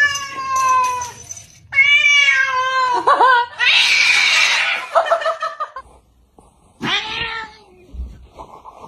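Angry cat yowling: several long, wavering calls, with a hiss about four seconds in.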